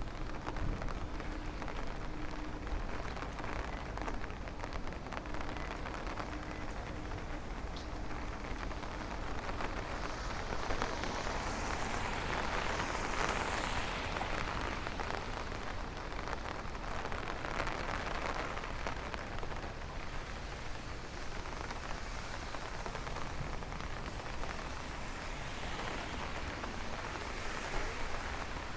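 Steady rain falling on an umbrella overhead and the street around it, its hiss growing louder for a few seconds midway.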